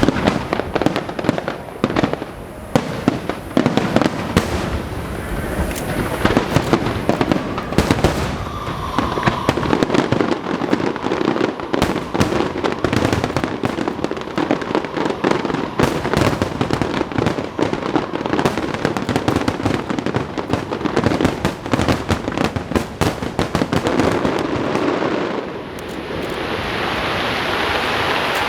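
Fireworks bursting in quick succession, a dense run of overlapping bangs and crackles. About 25 seconds in the bangs stop and a steady, even noise takes over.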